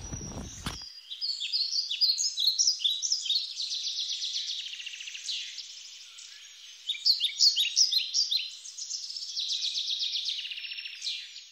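Songbirds chirping, many short high notes and quick trills overlapping throughout. A low rumble underneath cuts off suddenly less than a second in.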